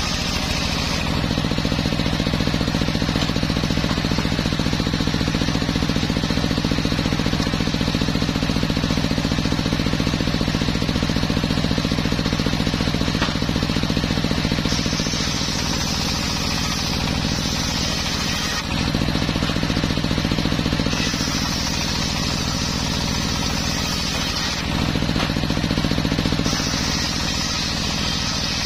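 Engine of a homemade circular sawmill running steadily under load as the blade cuts teak. The engine note changes every few seconds, and a high hiss comes and goes.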